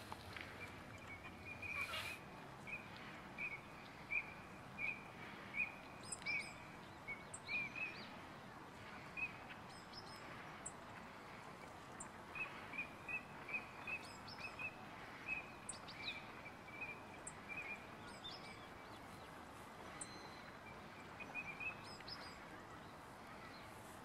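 Short, steady-pitched chirps of small birds, repeated in runs of about three a second, with scattered thin high calls, over faint outdoor background noise.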